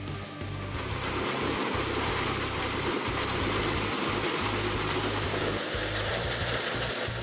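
Heavy wood-processing machine running: a steady low engine hum with a loud rush of noise building up about a second in.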